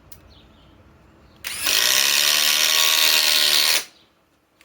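DeWalt DCF845 XR cordless impact driver running for about two seconds, driving a 4-inch TimberLok screw into wood. It starts about a second and a half in and stops abruptly.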